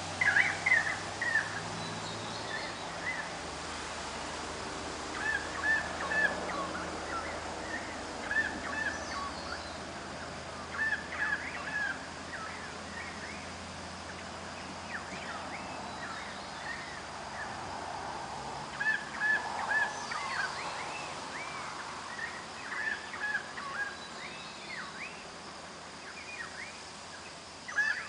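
Birds calling in short runs of quick repeated notes, the runs coming back every few seconds.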